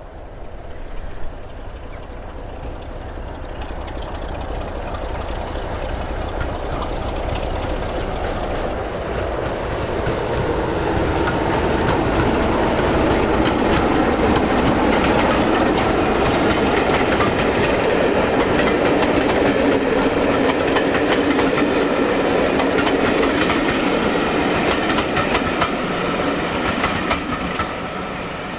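A train running past on the line, its sound building steadily over about twelve seconds, holding loud, then easing a little near the end.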